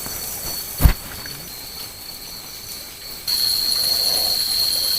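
Steady high-pitched chorus of night insects in a tropical forest, which becomes much louder suddenly a little past three seconds in. A single heavy thump about a second in.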